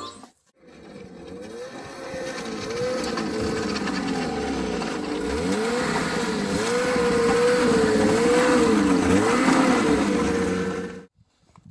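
Snowmobile engine running under way, its pitch repeatedly rising and falling with the throttle. It starts and stops abruptly.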